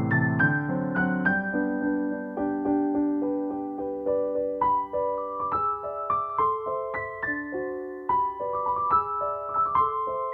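Background music: a piano or electric-piano melody of single notes with a bass line, played at an even pace.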